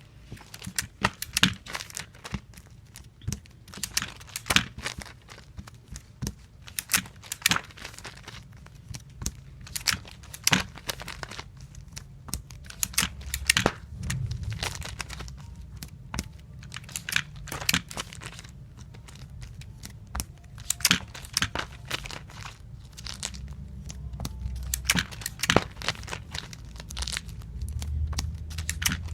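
Tape dispenser used over and over to tape comic books: many short, sharp rips of tape being pulled out and torn off on the cutter, coming at uneven intervals, with handling noise in between.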